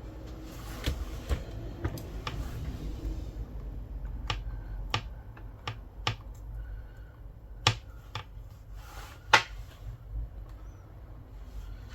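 Scattered sharp clicks and taps of small hand tools and device parts being handled during iPad reassembly, about a dozen, the two loudest in the second half, over a low steady hum.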